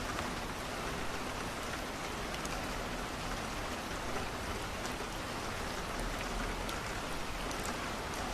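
Steady rain pattering on a window, an even unbroken hiss, with scattered faint sharp ticks.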